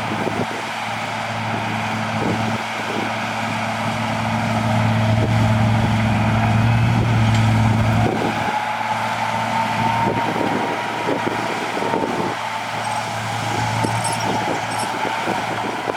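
Heavy diesel earthmoving machinery working: a loud, steady engine hum with a whine above it and scattered knocks. About eight seconds in the engine note drops and the whine rises in pitch.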